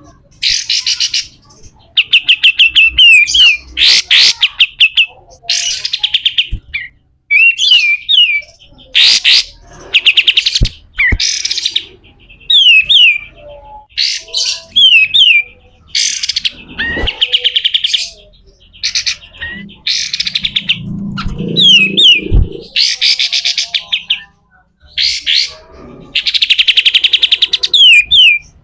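Kapas tembak bulbul giving harsh, rapid chattering 'besetan' phrases in short bursts about once a second, mixed with quick falling whistled notes.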